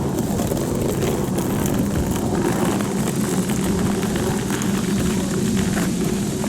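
A railway train running with a steady low rumble.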